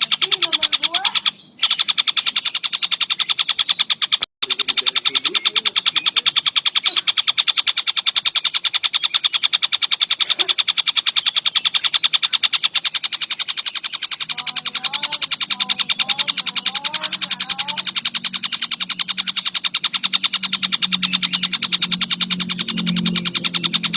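Kingfisher (tengkek buto) giving a loud, continuous, very rapid rattling trill, the dense 'gacor rapet' chatter. It breaks off twice for an instant in the first few seconds. Fainter, lower-pitched background calls come in about halfway through.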